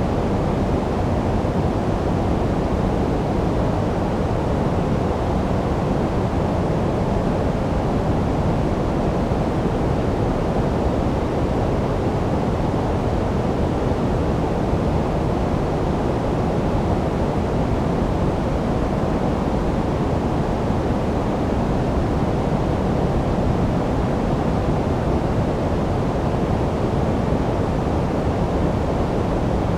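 Steady generated noise of the kind sold as white noise for sleep, even and unchanging, deep and rumbly with little high hiss.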